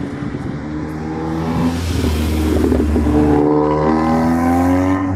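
A car engine revving up as the car accelerates away, its pitch climbing steadily for a few seconds and the sound growing louder.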